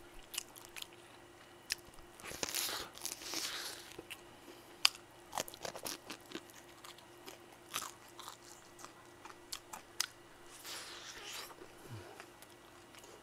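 Close-miked biting and chewing of crispy fried chicken: scattered crunches and small sharp clicks, with two longer stretches of crunching, about two seconds in and about ten seconds in.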